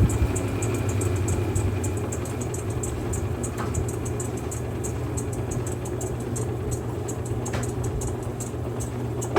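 Mueller Popmatic 8 kg washing machine running mid-cycle: a steady motor hum with a light, fast, regular ticking.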